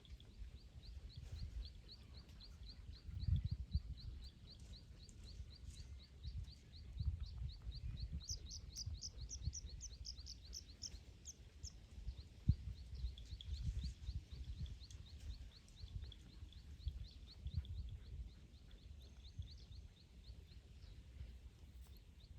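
A bird repeating a short high chirp rapidly, about five times a second, with a second, louder and higher run of chirps for a few seconds in the middle. Irregular low rumbling and thumps underneath.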